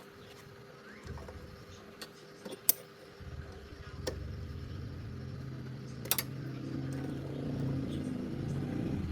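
A motor starts about three seconds in and runs steadily, getting slightly louder toward the end, with a few sharp clicks of metal tools before and during it.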